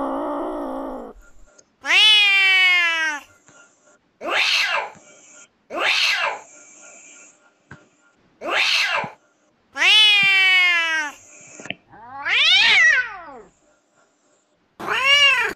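A hungry street cat meowing for food: seven loud meows about a second long with gaps between them, several sliding down in pitch and one rising then falling. It opens with a lower, rougher cry.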